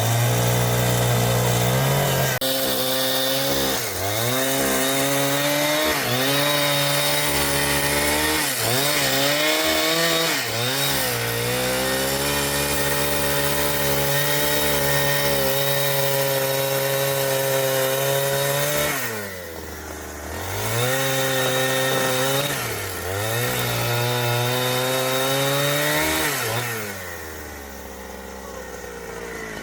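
Chainsaw cutting timber at full throttle, its pitch sagging briefly now and then as the chain bites. About two-thirds of the way through it drops to idle, revs up again, and falls back to idle near the end.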